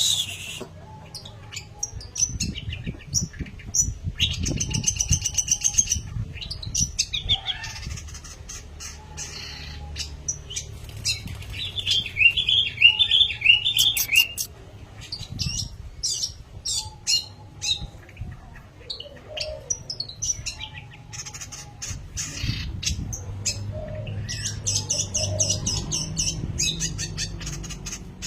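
Long-tailed shrike (pentet) singing a busy, varied song of sharp chirps, sliding notes and fast trills, over a low rumble.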